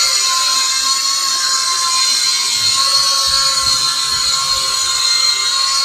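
WLtoys Q222 toy quadcopter hovering in altitude-hold mode: its small motors and propellers give a steady, high-pitched whine.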